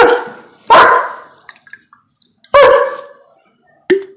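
Dog barking: two loud barks about two seconds apart and a short one near the end, in protest at a popping noise it hates.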